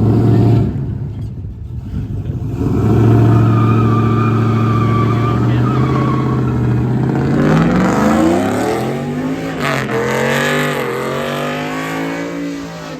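Pickup truck engine revving hard: held at a steady high note, then climbing, dipping and climbing again in pitch as it accelerates, and fading away near the end.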